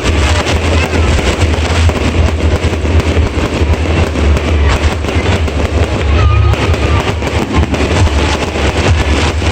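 Fireworks going off in rapid succession: dense bangs and crackles, with a short whistle about six seconds in, over a steady low rumble.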